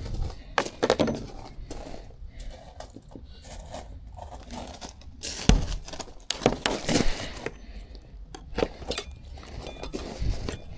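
Glazing beads being prised out of a window frame with a wedge tool: scattered clicks, scrapes and knocks, the loudest cluster about halfway through.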